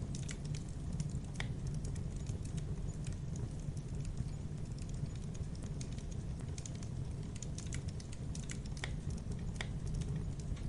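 Wood campfire crackling: irregular sharp snaps and pops over a steady low rumble, with a few louder pops about a second and a half in and near the end.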